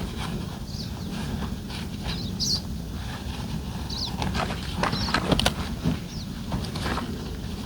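Scattered light knocks, clicks and rustles of a roof top tent being folded and packed away by hand, over a steady low background noise, with a few short high chirps, like birds.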